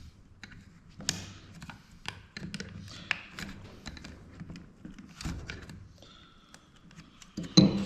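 Handling of dome security camera internals during disassembly: a string of light clicks, taps and knocks as parts are gripped and pried, with a louder knock near the end.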